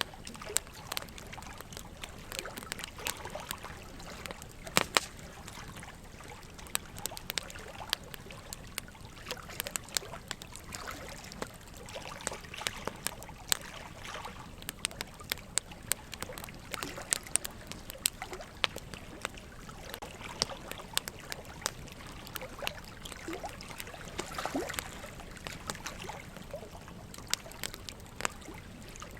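Wood fire crackling, with frequent irregular pops and snaps, over a steady trickle of running water.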